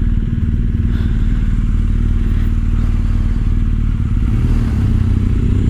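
BMW R1250 GS boxer-twin engine running steadily while the motorcycle is ridden along the road. The engine note shifts a little about four and a half seconds in.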